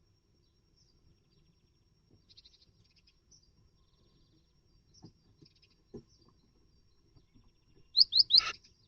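Great tit at its nest box: faint high chirps and a few soft knocks, then near the end three quick, loud sweeping call notes followed by a short harsh burst.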